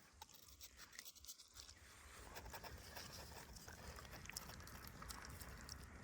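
Near silence with faint scattered ticks and light rustling.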